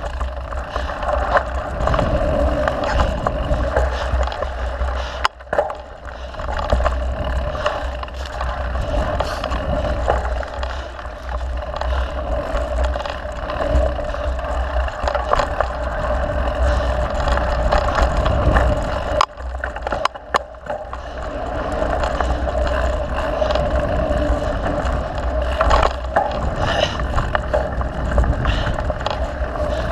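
Mountain bike ridden along a dirt trail: steady wind rumble on the microphone mixed with tyre and frame rattle. It eases off briefly twice, about five seconds in and around twenty seconds.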